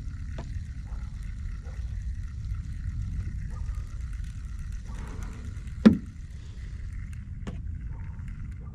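Steady low rumble with scattered small clicks and knocks from handling gear aboard a kayak; one sharp, loud knock about six seconds in and a fainter one a second and a half later.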